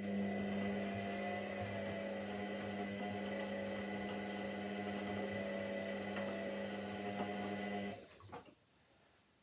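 Washing machine humming steadily, then cutting off suddenly about eight seconds in, with a couple of faint clicks as it stops.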